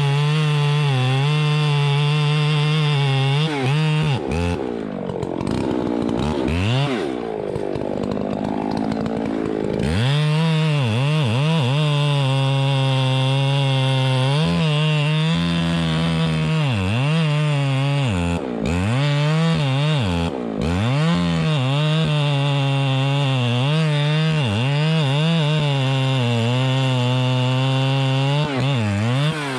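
Chainsaw running at high revs and cutting wood. For several seconds early on the engine bogs under load, its pitch sagging and wavering, then it recovers; later it dips briefly and repeatedly as the throttle comes on and off.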